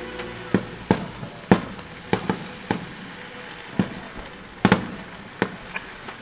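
Fireworks going off: about a dozen sharp bangs at irregular intervals, some close together in pairs, with faint music underneath.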